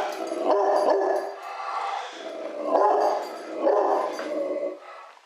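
A dog vocalizing excitedly: about five barks and drawn-out calls in quick succession, fading out near the end.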